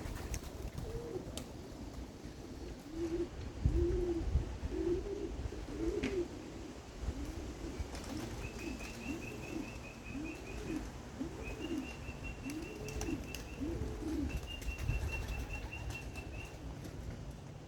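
Domestic pigeons cooing over and over, a steady run of low rising-and-falling calls. Three short, high, rapid trills from a small bird come in about halfway through.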